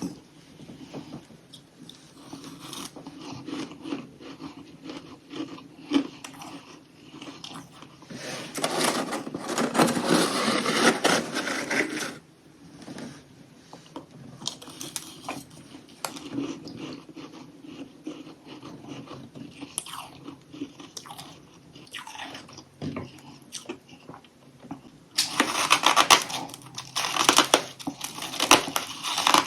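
A person biting and chewing crunchy chunks of humidifier freezer frost close to the microphone, a dense crackling crunch. It is loudest in a run about a third of the way in and again near the end, with quieter chewing crackle between.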